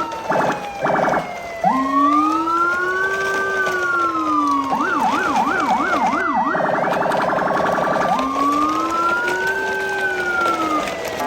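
Police-style electronic sirens overlapping. One cycles through a slow rising-and-falling wail, then a fast yelp, then a rapid pulsing warble, before going back to the wail. A second siren tone slides slowly downward underneath.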